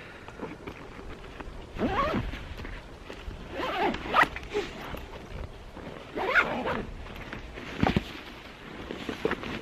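A bag's zipper pulled in three short runs about two seconds apart, then a sharp click.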